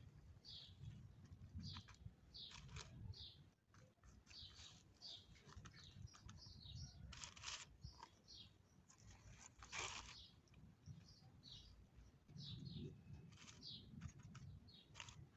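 Faint garden birdsong: many short, high chirps from several birds, over a low background rumble. A short, louder burst of noise comes near the middle.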